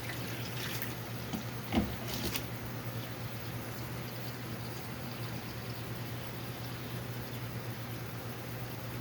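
Water running steadily from a faucet as the hot supply from the water heater is tested, with a steady low hum underneath. There is a short knock about two seconds in.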